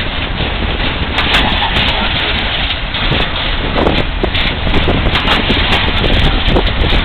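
Freight train rolling past: a steady rumble of wheels on rail with irregular clicks and knocks, and wind buffeting the microphone.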